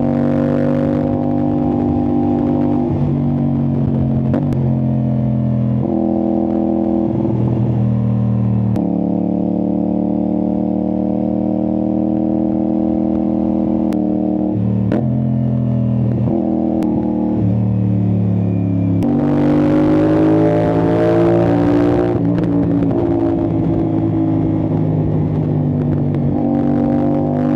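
CFMOTO 450SR-S parallel-twin engine running through an Austin Racing aftermarket exhaust while riding. The note holds steady for stretches and steps in pitch several times. About two-thirds of the way through it rises and gets louder under harder acceleration, then settles back to a steady cruise.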